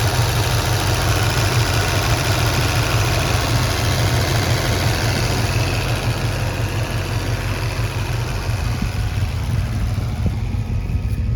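1989 Ford Mustang GT's 5.0-litre V8 idling steadily, a low, even exhaust rumble.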